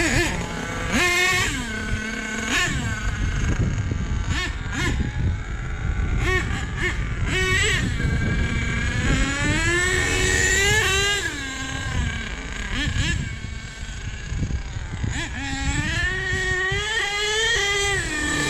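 Small nitro glow engine of a three-speed RC truck revving up and down under throttle as it is driven, its pitch rising and falling again and again, with the engine running smoothly and pulling well after a re-tune of its needles.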